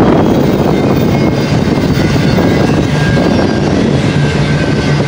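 Double-stack intermodal freight cars rolling past: a loud, steady rumble of steel wheels on rail.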